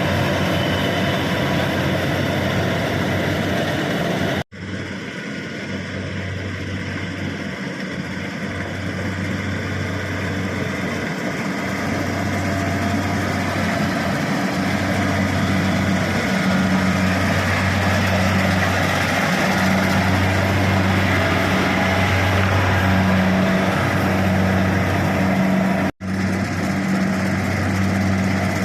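Kubota rice combine harvester's diesel engine running steadily with a low, even drone, cutting out for an instant twice.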